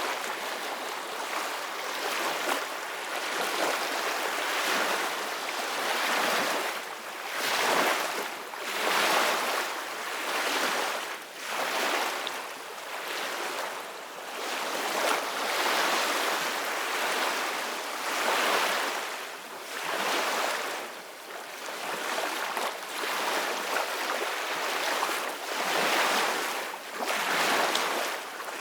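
Ocean waves breaking and washing on a beach: a continuous hiss of surf that swells and ebbs every few seconds.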